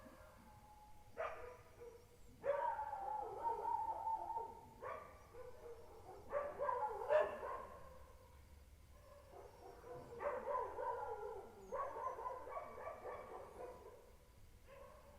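Dogs howling: a series of about six long, wavering howls, some overlapping.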